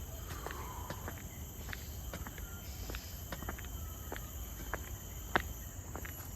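Footsteps of someone walking a forest trail, heard as irregular sharp clicks, over a steady high-pitched insect chorus. A faint bird call comes about half a second in.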